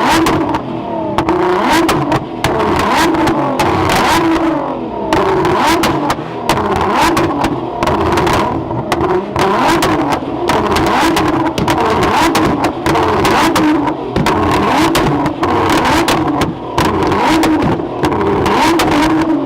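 Car engines revving hard, rising and falling, with many sharp cracks cutting through the whole time.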